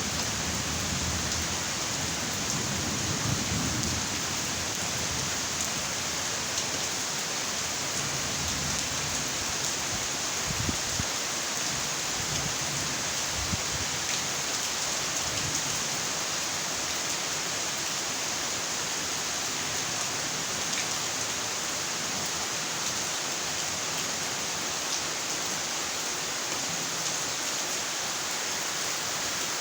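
Steady rainfall, an even hiss of rain with no letup. The low rumble of thunder dies away in the first few seconds.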